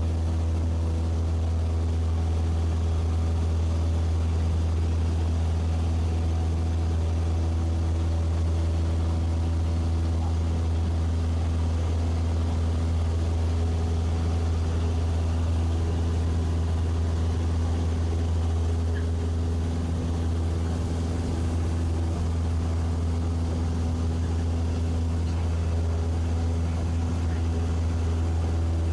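Steady low drone of a small propeller airplane's piston engine, running evenly with no change in pitch.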